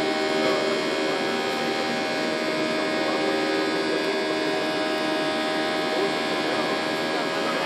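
Airliner jet engines heard inside the passenger cabin: a steady drone with several held whining tones over the rush of air.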